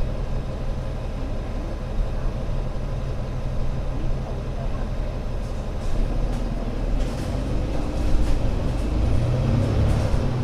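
Alexander Dennis Enviro500 MMC Euro 6 double-deck bus engine running with a steady low drone. About six seconds in its note changes and it grows louder toward the end, with light rattling clicks over it.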